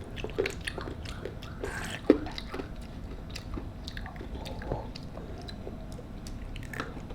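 Children chewing and biting fast food, with many small scattered mouth clicks and one sharper click about two seconds in.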